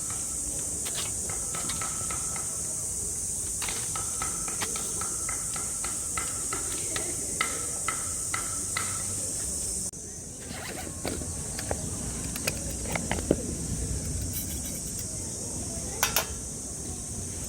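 Steady high buzzing of cicadas, with scattered short clicks and knocks over it. The buzz drops a little about ten seconds in, and there is a louder pair of knocks near the end.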